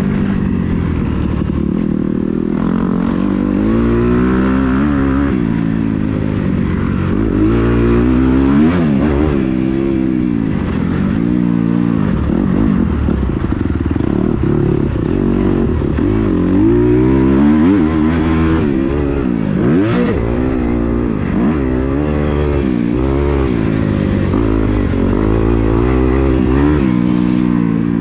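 Kawasaki KX250 motocross bike engine revving up and down over and over, its pitch climbing and dropping repeatedly as the throttle is worked and released.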